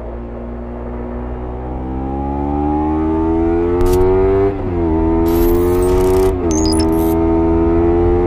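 Kawasaki Ninja 300's parallel-twin engine accelerating under load, its pitch climbing steadily through the revs. It drops sharply at an upshift about halfway through and again about three quarters in, then climbs again after each.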